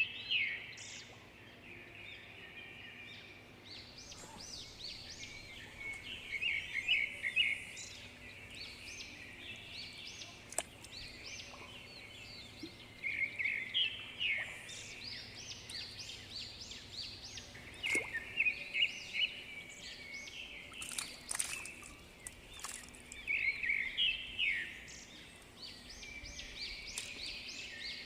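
Birds chirping and singing in short repeated phrases every few seconds, over faint steady background noise.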